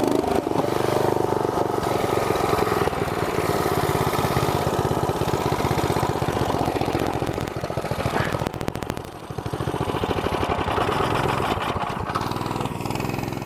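Mini bike's small engine running under throttle, its note dipping briefly about nine seconds in before picking up again, then dropping away at the end.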